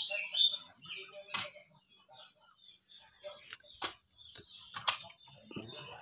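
Small birds chirping, loudest at the start and then in scattered faint calls, with a few sharp clicks or taps in between.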